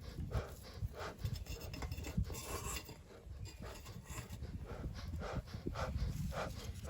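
Bellows of a beekeeper's smoker being pumped, giving a steady run of short breathy puffs about two a second as air is blown in to get the wood fuel burning.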